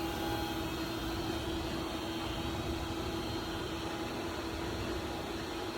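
Steady hum and fan noise with a constant mid-pitched tone from the powered-up Haas VF-2SS machining center standing idle, its cooling fans and electrics running.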